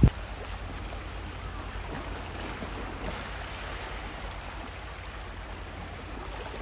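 Steady wash of sea water against the shore, with a faint low rumble underneath.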